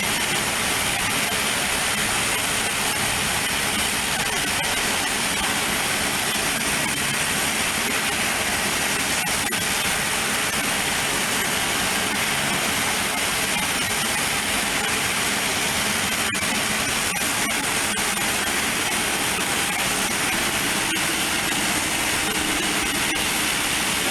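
Aircraft engines running steadily at the airport, an even unbroken rushing noise that neither rises nor falls.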